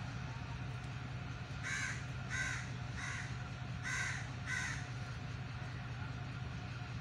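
A bird calls five times, a run of three then two, each call short and about half a second apart. Under it runs a steady low hum, which fits the diesel locomotive standing down the track.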